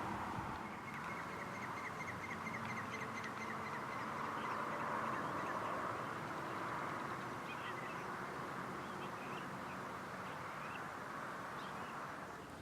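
Birds calling over a steady hiss: a rapid run of short, evenly spaced notes in the first few seconds, then scattered short chirps.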